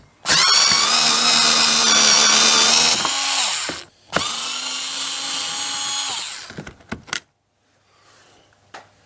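Handheld power driver run in two bursts, about three seconds and then two and a half, a steady motor whine while working the small crosshead screws that hold the fog lamp lens unit in. A few light clicks follow.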